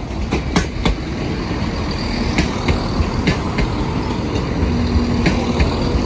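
Train passing close by at a level crossing: a steady heavy rumble with irregular sharp clacks of wheels over rail joints.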